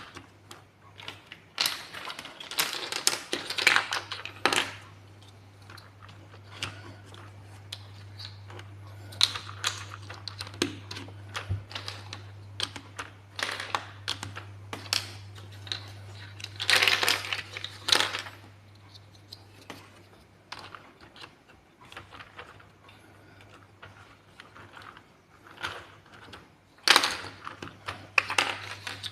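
Plastic building blocks clicking and rattling as they are picked up, handled and pressed together, in irregular bursts of sharp clicks. A faint low hum sits underneath.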